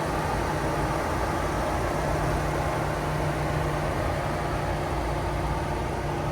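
A car engine idling steadily: a constant low hum under an even wash of background noise.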